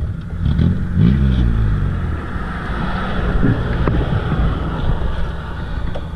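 Motorcycle engine running, its pitch rising briefly about a second in.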